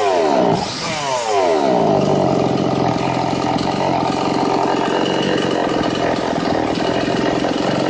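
Two-stroke chainsaw engine revved, its revs dropping off over about a second and a half, then idling steadily.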